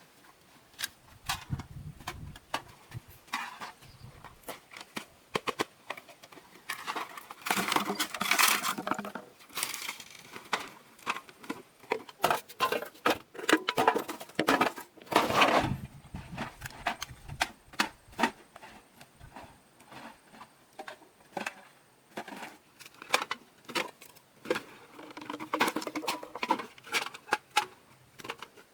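Irregular clicking, tapping and clattering of small hard objects being handled, with busier bursts of clatter a few times.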